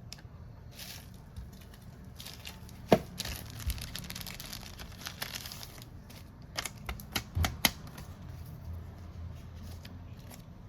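Phone-repair bench handling noise: a stretch of crinkling, tearing-like noise, like plastic film or adhesive being peeled. Sharp clicks from small tools and parts come about three seconds in, and again as a quick run of several clicks just past the middle.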